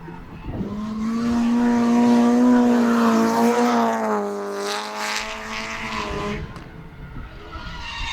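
Drift car engine held at high revs with a nearly steady pitch, over tyre noise, as the car slides by. It is loudest about two to three seconds in, then drops in pitch and fades after about four and a half seconds.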